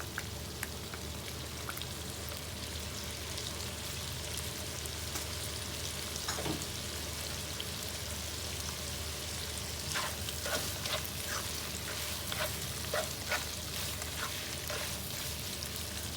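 Chicken and hotdog sizzling steadily in hot oil in a pot, with a spoon scraping and knocking against the pan in quick strokes from about ten seconds in.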